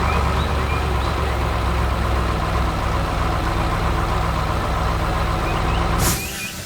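Heavy machine engine running steadily with a low drone, cutting off abruptly about six seconds in.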